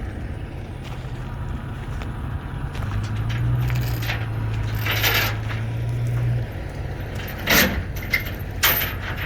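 A vehicle engine running steadily, pulling harder for a few seconds before dropping back about six and a half seconds in, followed by a couple of sharp knocks.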